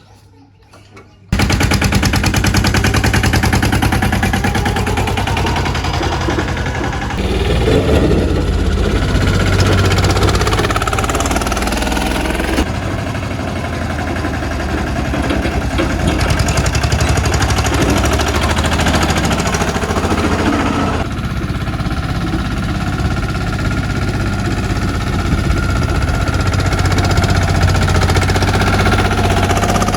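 A mini tractor's engine running with a rapid, even chugging. It comes in suddenly about a second in and stays loud, with small shifts in tone at a few points.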